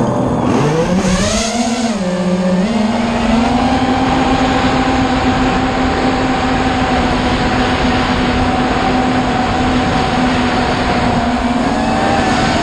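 A motor starts up abruptly and climbs in pitch over the first few seconds, then holds a steady high speed, with a rushing noise alongside.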